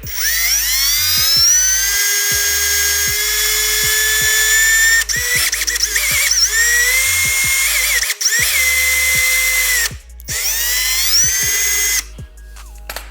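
Power drill boring into a car's fender to mount bumper quick releases: it spins up with a rising whine, runs steadily for about five seconds, then goes in three shorter bursts with brief stops, and stops near the end.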